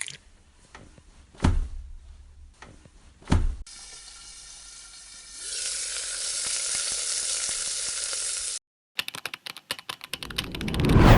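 Kitchen sounds from a cooking edit: two knocks, then food sizzling in a hot pan, a steady hiss that grows louder about halfway through. After a sudden cut comes a quick run of sharp taps, and near the end a loud swell of frying.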